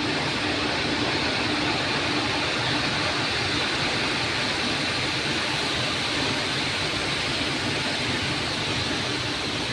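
Steady machinery noise, an even rumble and hiss with no rhythm or change.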